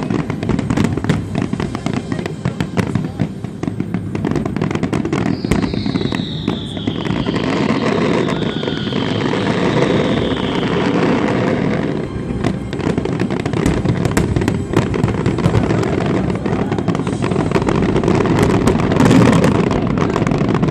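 Fireworks display: a dense, continuous barrage of bangs and crackling, with a whistle that falls slowly in pitch for several seconds about five seconds in.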